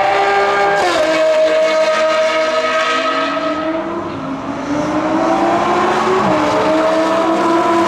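Supercar engine at full throttle down the straight, its pitch dropping sharply on an upshift about a second in, climbing steadily as it pulls through the next gear, then dropping on another upshift about six seconds in.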